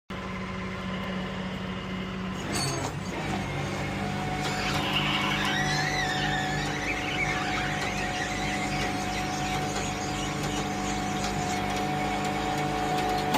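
A vehicle's engine hums steadily. About four seconds in, a high squeal joins it, wavering up and down in pitch.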